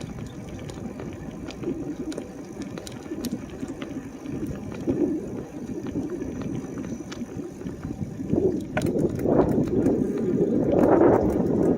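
Ride1Up e-bike rolling along a paved road: steady low rumble of tyres and riding noise with a few light clicks, growing louder over the last few seconds.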